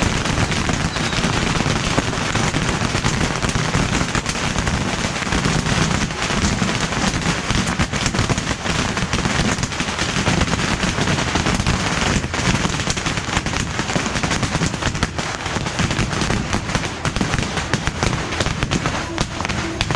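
A continuous barrage of beehive-rack bottle rockets and firecrackers: countless small bangs and cracks run together into one dense crackle with no let-up.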